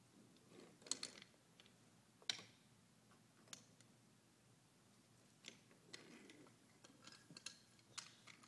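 Faint, scattered sharp clicks and clacks of toy train pieces being handled, over quiet room tone; the loudest come about one and two seconds in.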